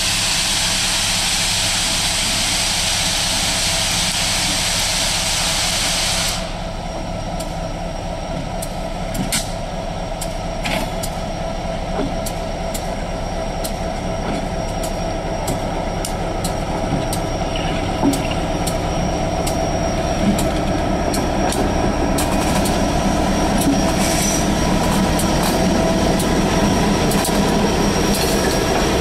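A slow train passing close by, an R.J. Corman diesel locomotive leading with the QJ steam locomotive behind it. A loud steady hiss cuts off abruptly about six seconds in. After that comes the diesel's rumble with wheels clicking over the rails, growing louder as the steam locomotive draws near toward the end.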